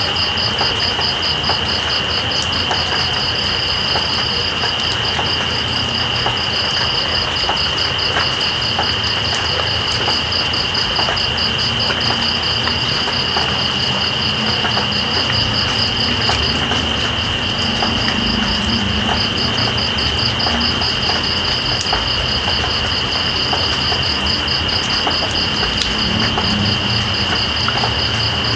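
Steady rain falling, with night insects trilling over it: one continuous high drone and a higher, rapidly pulsing trill that breaks off briefly about halfway through.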